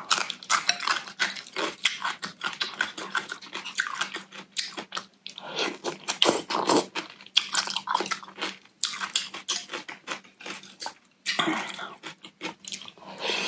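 Crunchy biting and chewing of Korean yellow pickled radish, a dense run of irregular crackles. About six seconds in, cold noodles are slurped and chewed along with it.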